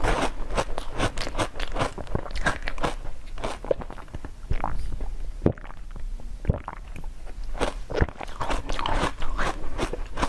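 Close-miked eating sounds: biting into and chewing crunchy food, with many crisp crunches and crackles that thin out for a few seconds in the middle.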